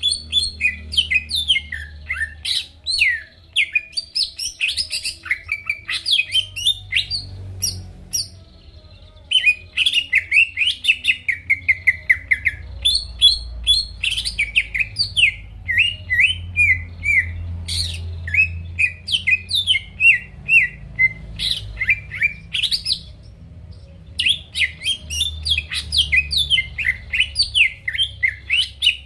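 Cucak ijo (green leafbird) singing in loud, fast runs of sharp chirps and whistled slurs, in long phrases broken by short pauses about eight seconds in and again about twenty-three seconds in. A faint low hum runs underneath.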